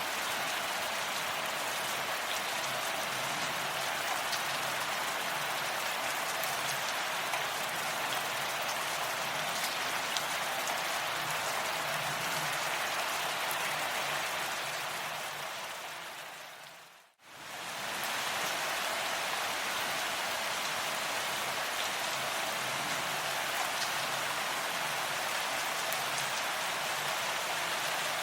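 Steady rain falling, a dense even hiss with many fine drop taps. About two-thirds of the way through it fades down to near silence and swells back up within a second or so, like the join of a looped recording.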